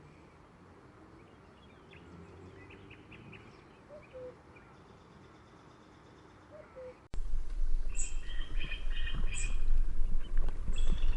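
Birds calling and chirping: faint high chirps with two short, lower call notes, then an abrupt switch about seven seconds in to a much louder stretch of rapid high chirps over a steady low rumble.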